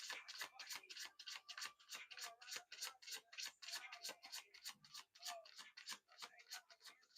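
A deck of reading cards being shuffled by hand: a quick run of small, sharp card clicks and flicks, several a second.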